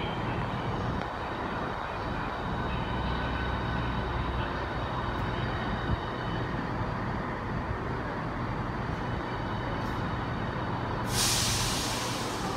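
Steady low hum of a standing train at a station, then a sudden loud hiss of released air from the train's air system about eleven seconds in, lasting a second or so.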